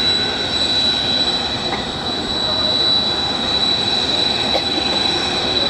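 Jet engines of Kawasaki T-4 trainers running at idle on the ground: a steady high whine over a broad rush.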